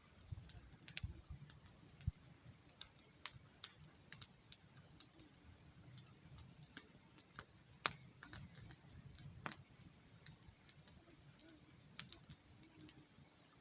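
Wood campfire crackling faintly, with irregular sharp pops, one louder about eight seconds in, over a steady high hiss.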